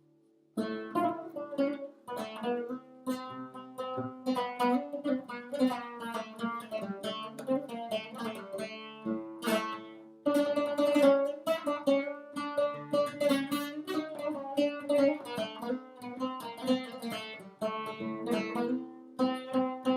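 Lavta, a fretted long-necked lute played with a plectrum, playing an improvised melody. It begins about half a second in: quick runs of plucked notes over lower strings left ringing.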